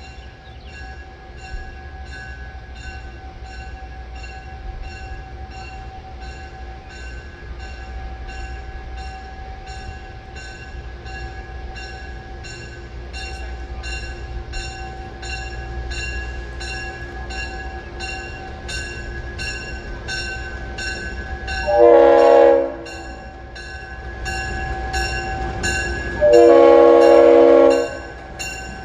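A train running, with a locomotive bell ringing steadily a little under twice a second over a low rumble. The horn sounds twice: a short blast, then a longer one about four seconds later.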